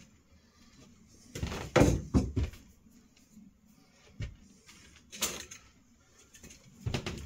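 Scattered knocks and bumps of hands and tools at work: a loud cluster about two seconds in, single knocks about four and five seconds in, and a few more near the end.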